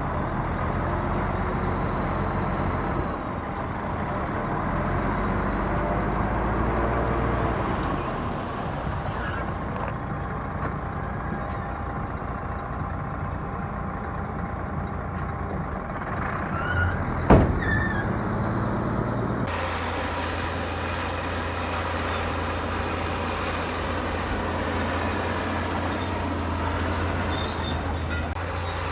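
Heavy diesel earthmoving machinery running steadily at a low pitch, with one sharp bang about two-thirds of the way through. The sound changes abruptly soon after the bang.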